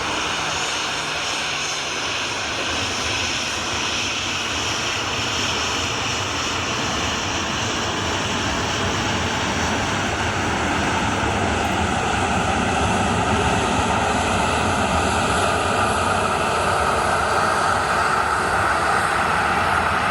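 Four-engine jet noise from a Boeing 747-400 on arrival: a steady rushing drone with a faint whine, growing louder through the second half.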